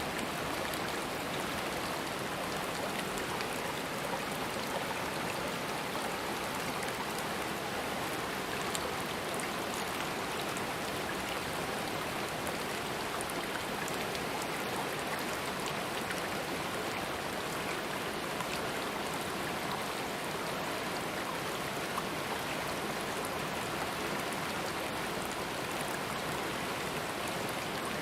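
Stream water flowing: a steady, unbroken rush with faint small ticks of splashing.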